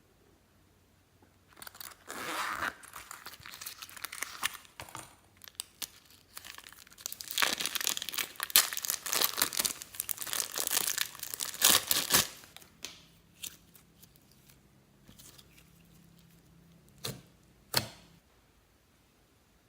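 Slime being squished and stretched by hand, crackling and popping with trapped air in dense bursts, then falling to a few scattered clicks with two sharp clicks near the end.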